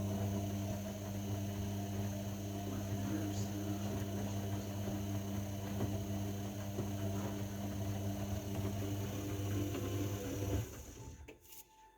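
Zanussi washing machine giving off a steady low electric hum, which cuts off sharply about ten and a half seconds in.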